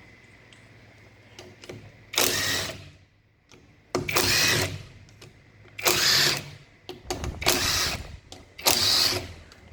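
Powered driver spinning out the bolts of a motorcycle engine's flywheel cover in five short bursts of under a second each, with pauses between.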